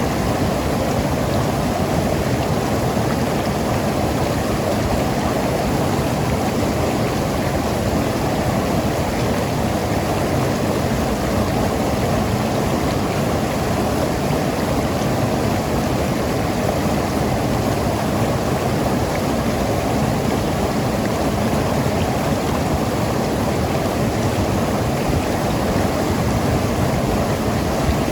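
Mountain river rushing and gurgling over rocks, a steady full rush of water that does not change.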